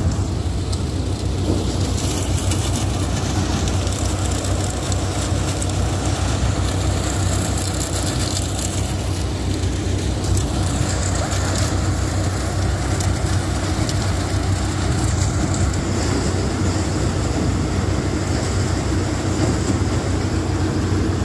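Engine-driven paddy threshing machine running steadily: a constant low engine hum with a continuous hiss over it.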